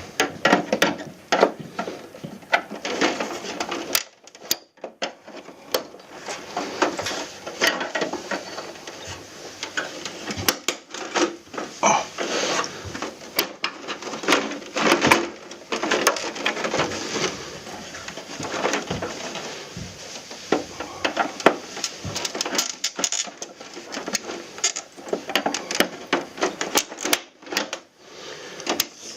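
Hands and tools working on an air conditioner being taken apart for cleaning: a close, busy run of plastic and metal clicks, knocks and rattles with no pause longer than about a second.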